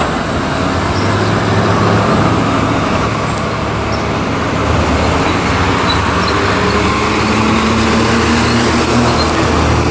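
City street traffic: road noise with a vehicle engine running close by, its low hum growing a little stronger about halfway through.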